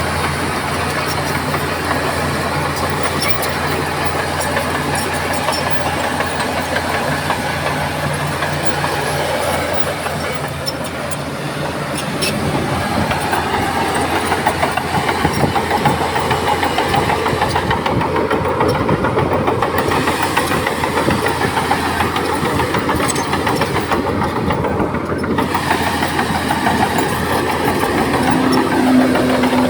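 Bulldozer's heavy diesel engine running steadily as it works, growing louder about twelve seconds in, with a falling tone near the end.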